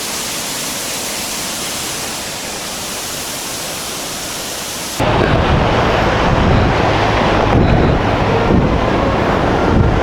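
Waterfall pouring with a steady rushing hiss; about halfway through it cuts suddenly to a louder, deeper rumble of falling water.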